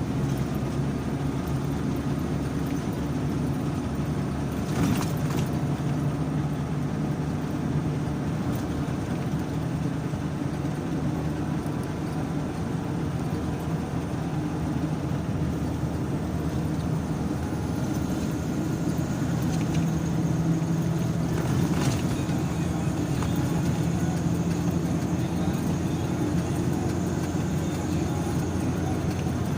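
Car driving along a road, with a steady engine and tyre drone. Two brief knocks, one about five seconds in and another a little past twenty seconds, like the car going over bumps.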